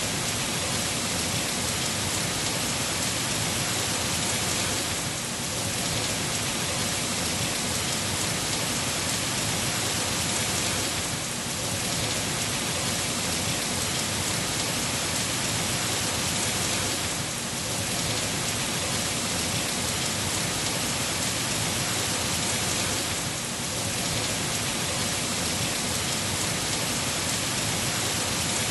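Heavy rain falling in a steady, dense hiss, with a slight dip in level about every six seconds.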